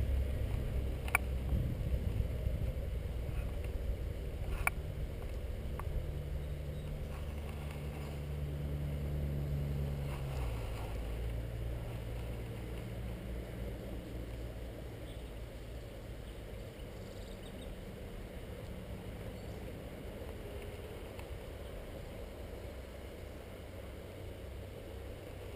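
Low, steady engine hum, like a motor vehicle running some way off, which drops away about ten seconds in, with a couple of faint clicks.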